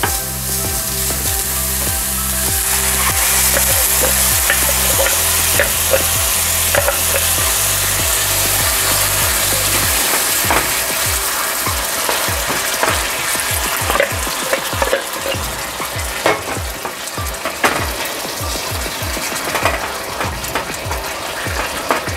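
Chopped onion and garlic frying in hot oil in a small nonstick pan, sizzling, with a wooden spatula stirring. A few seconds in, a blended chile sauce goes into the pan and the sizzle grows louder. In the second half, the spatula scrapes the pan in many short strokes.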